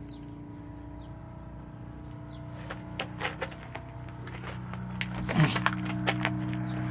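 A motor vehicle engine running steadily, slowly growing louder, with a few light clicks and knocks partway through.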